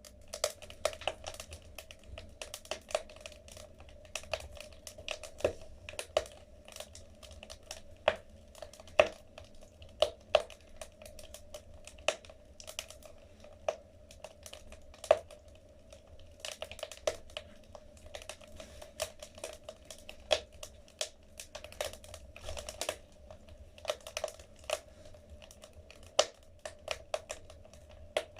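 Wood fire burning in a fireplace, crackling: irregular sharp pops and snaps from the burning logs, sometimes several in quick succession, with louder single snaps scattered among them.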